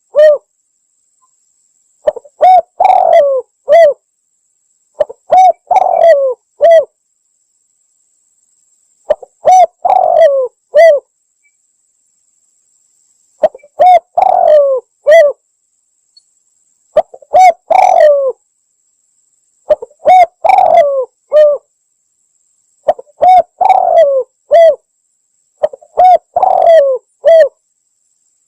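Spotted dove (tekukur) cooing: a short three-part coo phrase repeated eight times, about every three seconds, with clean silence between phrases. This is a lure call for drawing in wild doves.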